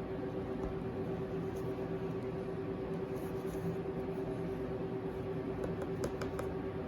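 A steady machine hum with one constant tone over a low rumble, and a few faint clicks near the end.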